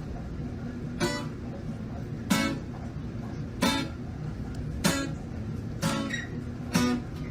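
Background music: strummed guitar chords, about one strum every second and a quarter over a steady low accompaniment.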